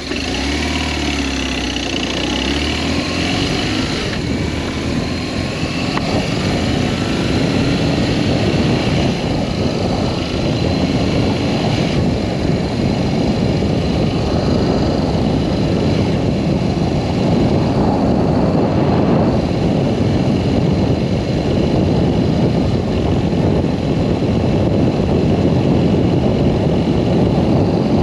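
BMW R1200S boxer-twin engine running under way, with wind rush over the microphone that grows louder as speed builds.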